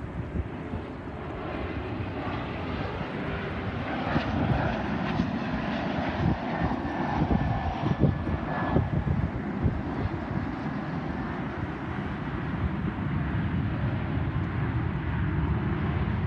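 Airliner's jet engines heard as a steady rumble and hiss, with a faint high whine in the middle.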